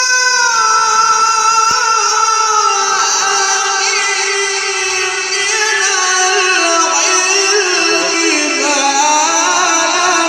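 Melodic Quran recitation by a male reciter, his voice holding long ornamented notes that slowly fall in pitch and then turn back up near the end.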